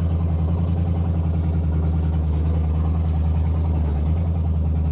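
1970 Oldsmobile Delta 88's V8 running steadily as the car is driven, a low even drone with a fine regular pulse. The engine is prone to dying off idle, and a carburetor that needs adjustment is the suspected cause.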